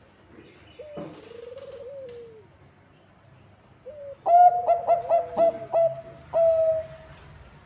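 Zebra dove (Bangkok perkutut) cooing. A softer call comes about a second in, then a loud rapid run of about seven short notes ending in one longer note, over a faint low hum.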